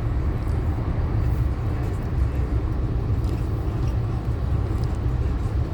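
Steady low rumble of a moving passenger train, heard from inside the car, with faint light ticks over the top.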